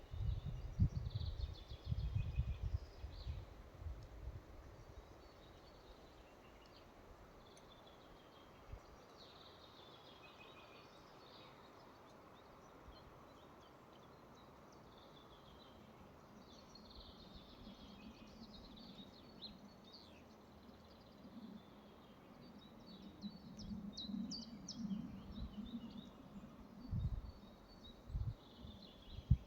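Forest ambience with small birds chirping and twittering throughout. Low gusty rumbles come in the first few seconds and again near the end, with a faint low hum in the second half.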